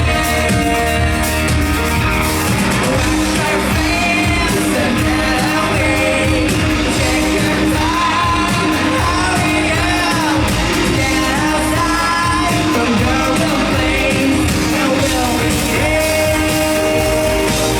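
Live rock band playing a song, with a singer's vocals over a steady, loud full-band backing.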